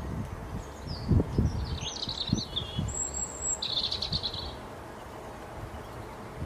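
Small songbird calling: a run of high chirps and short trills with a thin, very high whistle in the middle, over a few low, muffled thumps.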